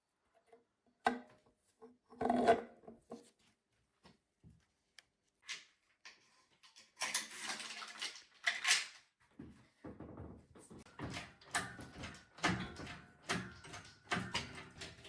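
A scattered series of knocks and clicks, with two short scraping or rustling noises a little past the middle, then a quick, irregular run of taps and clicks through the second half.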